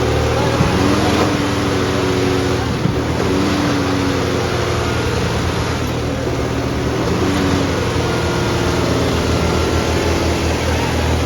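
Tractor diesel engine running loud and steady under heavy load, with voices shouting over it.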